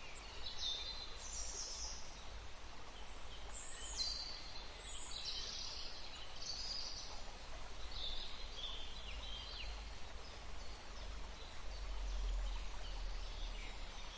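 Wild birds calling in a string of short, high chirps and trills over a steady hiss of running water, with a low rumble swelling near the end.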